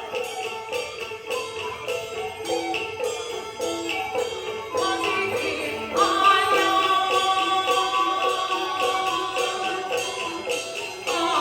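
Beiguan Fulu-style opera music: a melody over a steady percussion beat of about two to three strokes a second, with jingling metal percussion. About six seconds in, a louder, higher melodic line comes in over the beat.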